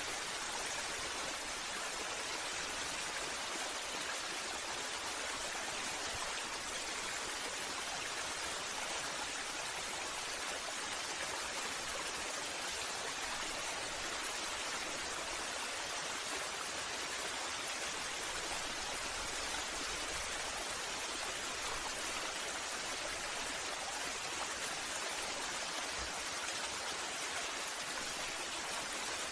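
Waterfall rushing with a steady, even hiss of falling water, unchanging throughout.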